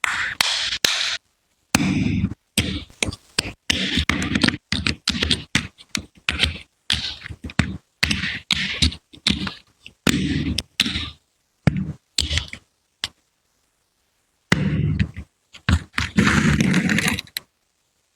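Large plastic building bricks clacking, tapping and scraping against one another as they are handled and pressed together, in quick bunches of knocks with abrupt silent gaps between them.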